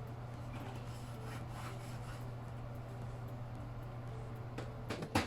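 Faint scraping and rubbing of kitchen food preparation over a steady low hum, with a few light knocks near the end.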